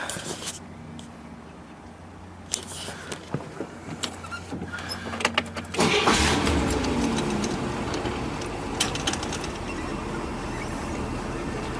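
1963 Corvette's 327 small-block V8 starting: a few clicks, then the engine catches with a burst about six seconds in. The revs fall away and it settles into a steady idle.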